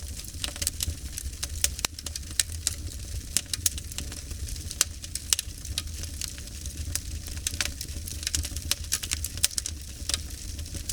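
Wood fire crackling: many irregular sharp pops and snaps, a few louder than the rest, over a steady low rumble.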